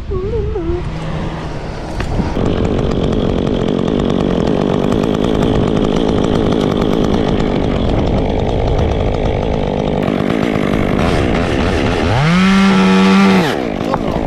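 Gas chainsaw running steadily, then revved hard and let back down near the end.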